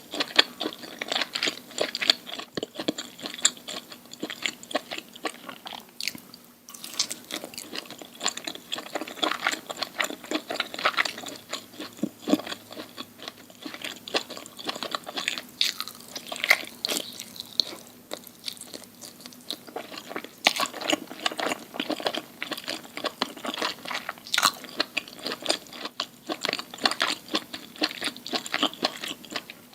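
Person chewing and crunching food close to an ASMR microphone, a steady run of crisp crackling bites and mouth sounds with a brief lull about six seconds in.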